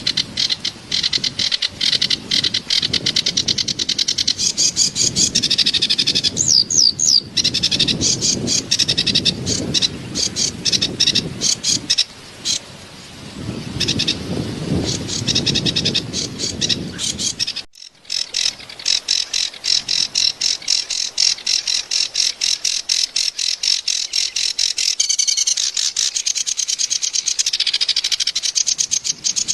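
A kerak basi (reed warbler) singing a harsh, fast, chattering song of rapidly repeated notes, used as tutor song for cage birds. A low rush of running water sits under it for the first half and stops after a brief gap a little past halfway.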